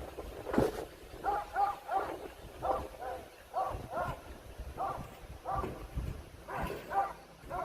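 Dog barking repeatedly in short, high barks, often two or three in quick succession.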